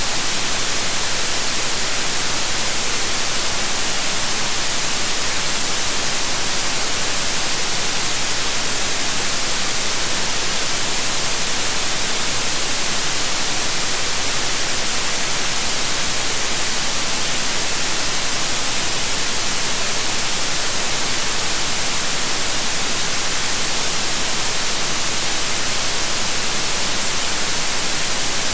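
Steady white noise: an even, unbroken hiss with no rhythm or change.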